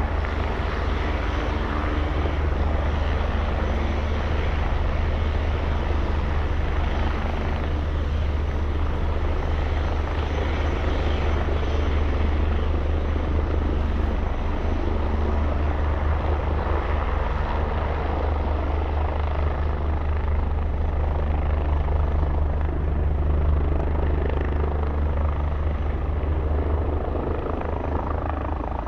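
Helicopter running steadily at close range: a deep, even rotor drone with turbine noise above it.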